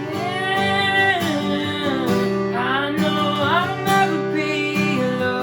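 Live worship band music: strummed acoustic guitar under a wordless sung vocal line that slides up and down twice.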